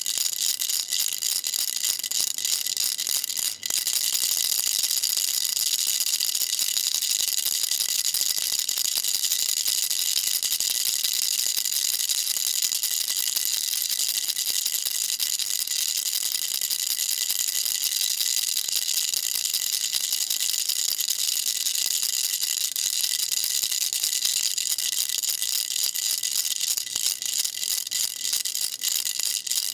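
A baby rattle shaken continuously: a dense, even, high-pitched patter of small beads rattling inside it, with a brief break about three and a half seconds in.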